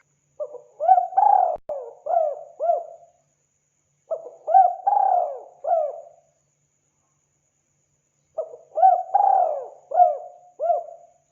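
Spotted dove cooing: three phrases of several quick coos each, a couple of seconds apart.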